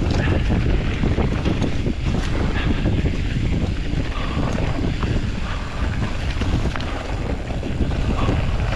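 Wind rushing over the microphone as a Specialized Status 160 mountain bike rolls down a dirt trail, tyres running over the ground and the bike clattering and ticking over rough spots.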